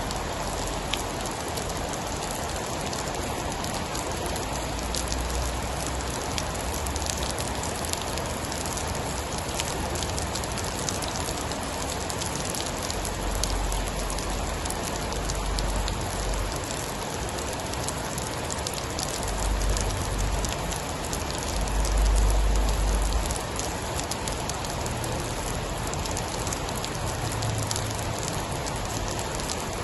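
Steady heavy rain drumming on a surface, with many small drop ticks. Low rumbles of distant thunder swell and fade several times, the strongest about two-thirds of the way through.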